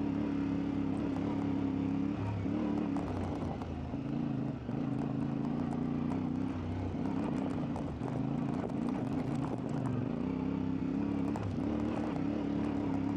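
CfMoto 450MT's parallel-twin engine running off-road, its revs rising and dropping several times as the throttle is worked, with scattered small knocks and rattles.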